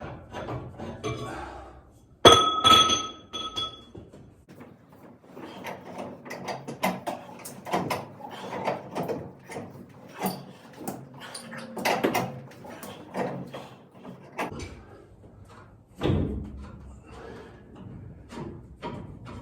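Old galvanized steel water pipes being worked with tools: a sharp metallic clang a couple of seconds in that rings on for about a second and a half, then a long run of irregular knocks, clicks and scrapes, and another heavy knock near the end.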